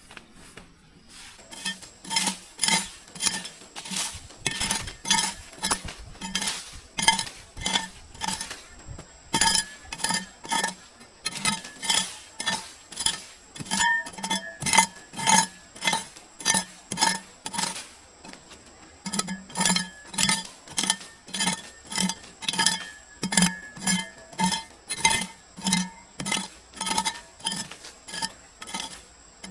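Metal utensil striking against a metal pot or bowl over and over, about two clinks a second, with a short pause about two-thirds of the way through.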